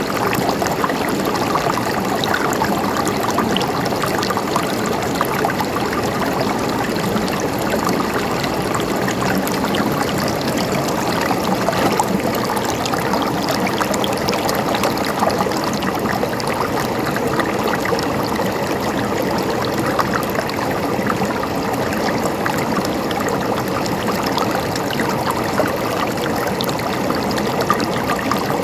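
Mountain stream running steadily over rocks, an even rush of flowing water with small splashes and gurgles throughout.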